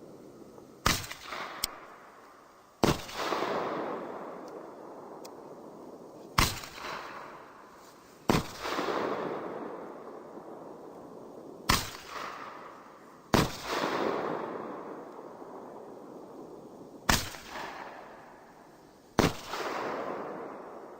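Six-shot consumer fireworks battery firing four of its shells. Each shot is a launch bang followed about two seconds later by the louder bang of the shell bursting high up. Each burst fades into a hiss lasting two to three seconds as the shell's golden strands fall.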